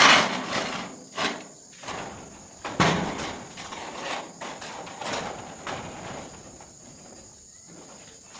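A few scattered knocks and clatters, the loudest about three seconds in, over a steady high-pitched insect drone.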